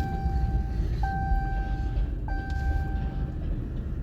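Railroad crossing bell striking about every one and a quarter seconds, each ding ringing out and fading, over the steady low rumble of a freight train rolling past.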